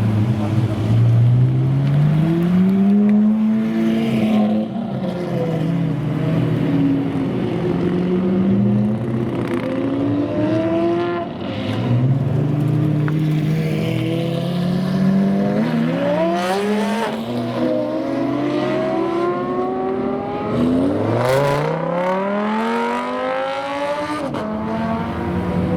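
Supercar engines revving hard as the cars accelerate away one after another. Each engine note climbs steeply in pitch, about four times over, the last and steepest climb coming late on.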